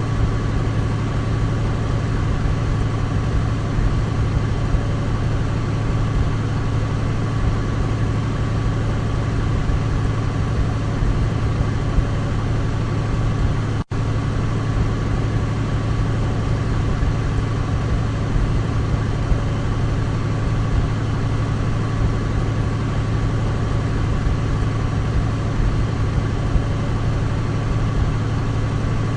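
Douglas DC-3's twin radial piston engines droning steadily, with a low hum and a steady higher tone over the drone. The sound drops out for an instant about halfway through.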